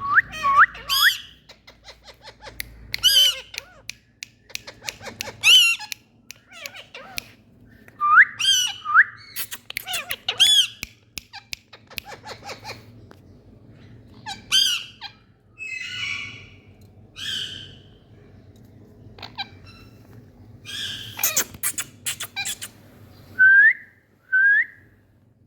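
Indian ringneck parakeets calling in bursts of short, rising whistled squawks every second or two, with some harsher squawks mixed in. A quick run of sharp clicks comes near the end.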